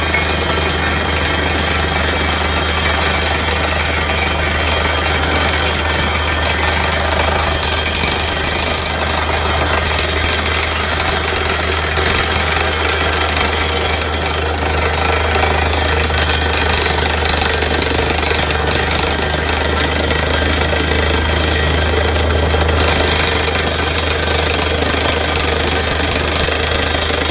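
Borewell drilling rig at work: the down-the-hole air hammer pounds continuously over the steady drone of the rig's engine.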